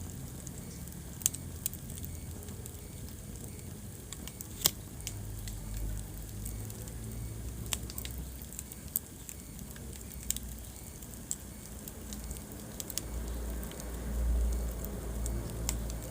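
Wood fire burning in a fireplace: a low, steady rumble of flames with scattered sharp crackles and pops. The loudest pop comes a little under five seconds in.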